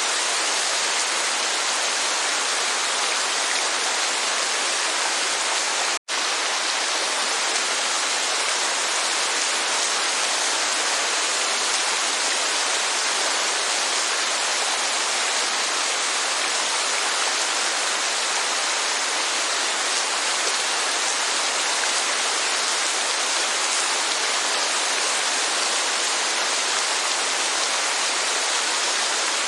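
Steady rainfall, an even hiss of falling water with no rhythm or pitch. The sound cuts out for an instant about six seconds in.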